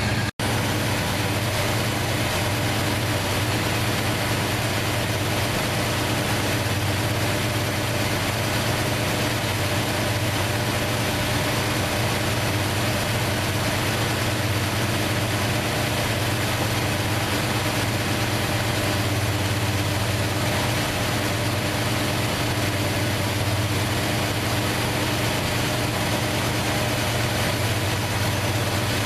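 1968 Plymouth Fury's 383 big-block V8 idling steadily on its four-barrel carburettor, running again after years out of action.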